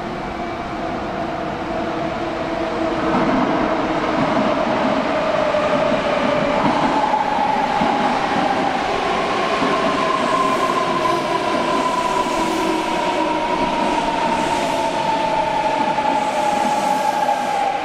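Kintetsu Urban Liner Next limited express train pulling into an underground station platform, growing loud over the first few seconds. Its electric motor whine slowly falls in pitch as it brakes, over the rumble of wheels on the rails.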